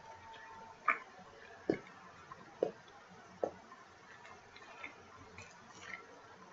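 Close-miked eating sounds: chewing and mouth clicks from a bite of pizza, about four short, sharp clicks roughly a second apart in the first half, then a few fainter ones.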